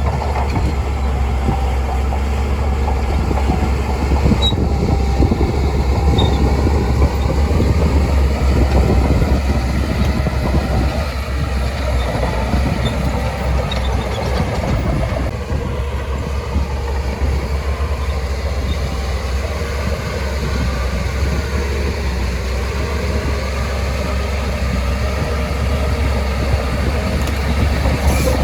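Shantui DH17C2 crawler bulldozer working: its diesel engine runs with a steady low rumble that swells and eases as the load changes, along with the running noise of the tracks.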